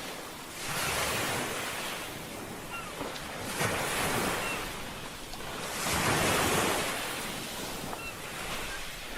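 Ocean waves breaking and washing in, swelling in three slow surges with wind in between. A few faint, short, high chirps sound over the surf.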